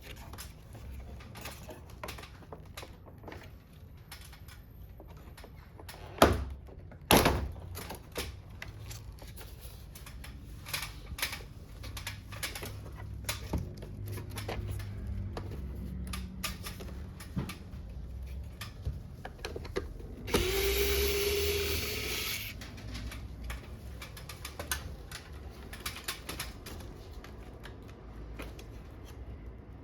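Hand work on air conditioner parts during disassembly: scattered clicks, taps and plastic knocks, with two loud knocks about six and seven seconds in. About twenty seconds in, a power driver whirs for about two seconds.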